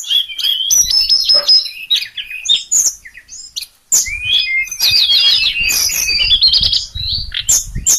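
Sulingan songbird singing a rapid, varied run of clear whistles and chirps. The song breaks off briefly about three and a half seconds in, then comes back as a dense stream of quick notes.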